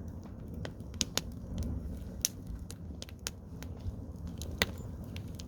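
Garden bonfire of cut wood crackling, with irregular sharp pops and snaps, a few louder than the rest, over a steady low rumble.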